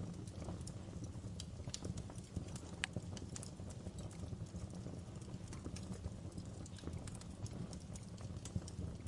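Wood fire burning in a fireplace, crackling: irregular sharp pops and snaps over a steady low rumble and hiss of the flames.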